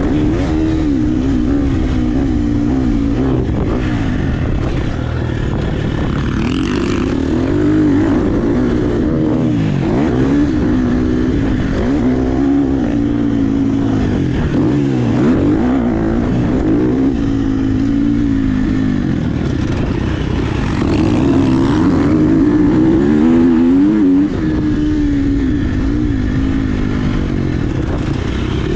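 Dirt bike engine revving up and down repeatedly as it is ridden, its pitch rising and falling every second or two as the throttle opens and closes and gears change.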